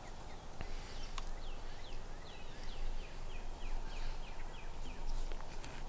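A bird calling in a quick series of short, high notes, about three or four a second, from about a second in until near the end, over steady outdoor background noise.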